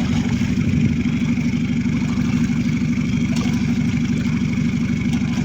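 A small boat's engine running steadily at a low, even idle, with a fast regular pulsing.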